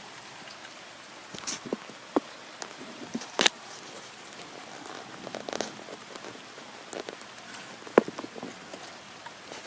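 Steady rain falling and hitting surfaces, with a handful of sharp, irregular taps and knocks of drops striking nearby, the loudest about eight seconds in.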